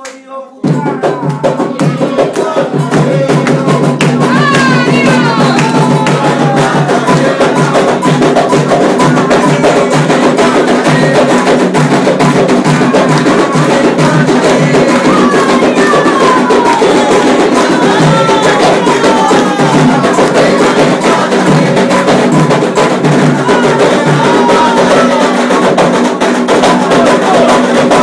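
Fast, dense Candomblé ritual drumming with a bright struck percussion part, starting loudly just under a second in after handclapping, with voices chanting over it.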